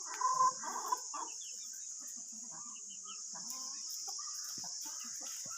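Flock of chickens clucking, with a few louder calls in the first second and scattered short clucks after. A steady high hiss runs underneath.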